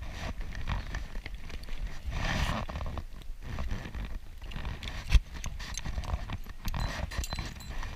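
A horse's hooves clip-clopping at an uneven beat, with one sharp, louder knock about five seconds in.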